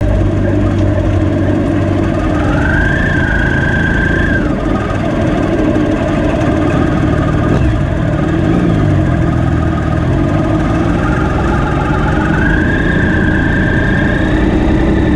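Motorcycle engine running steadily, with a higher whine that rises, holds and falls away twice.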